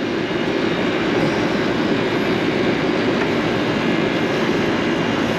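Old Goodman rooftop air-conditioning condensing unit running: its condenser fan and compressor make a steady, even noise.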